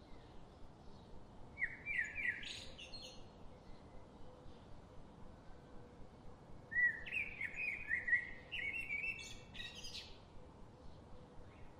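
A songbird sings two phrases of quick chirping notes, a short one near the start and a longer one of about three seconds in the second half, over a faint steady background hiss.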